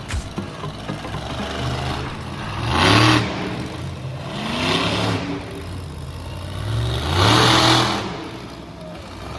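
Monster truck engine revving hard in three bursts about two seconds apart, the pitch climbing with each one, over a steady lower engine note.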